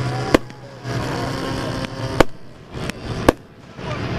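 Four sharp bangs, irregularly spaced about a second apart, over a steady low hum and background noise.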